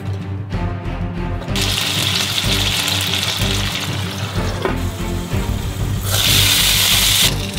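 Frozen dumplings sizzling in hot oil in a nonstick frying pan, starting about one and a half seconds in. Near the end, once water is in the pan under a lid, there is a second, louder stretch of sizzling lasting about a second. Background music plays throughout.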